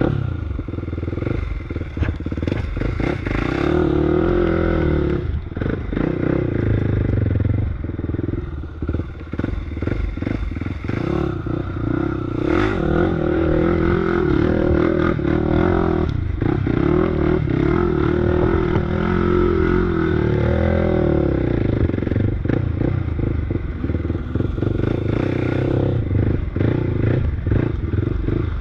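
Off-road vehicle engine running under load on a trail, its revs rising and falling again and again as the throttle is worked, with rattling and clatter from the machine over rough ground.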